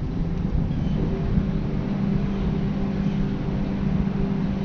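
A steady low mechanical hum, like an engine running, holding one even pitch.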